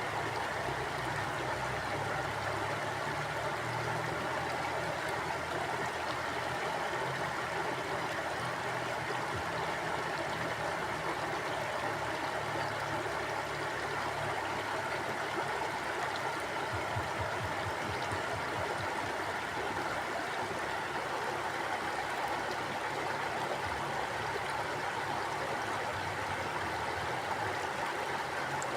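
A mountain stream flowing steadily over rocks, a continuous rush of water without breaks or changes.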